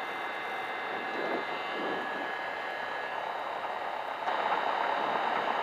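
Cessna 172 Skyhawk engine running at low power while the plane waits to take off, heard as a steady drone inside the cabin. The level steps up a little about four seconds in.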